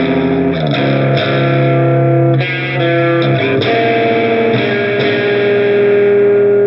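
Electric guitar played through an Olinthus Cicada overdrive pedal: distorted chords held and changed every second or so, ending on a long held note.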